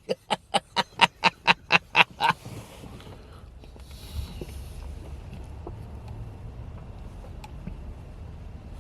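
A quick run of about ten sharp taps or clicks, roughly four a second, in the first two seconds, then the steady low rumble of a car driving, heard from inside the cabin.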